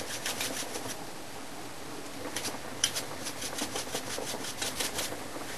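Salt being shaken out of its container into the pot, a quick run of short gritty rattles that thins out to scattered shakes.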